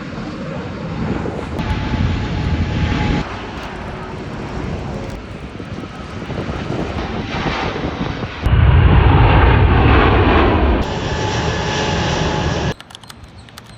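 Jet airliner engines roaring in several back-to-back segments that cut in and out abruptly, loudest from about eight and a half seconds in, then dropping away sharply near the end.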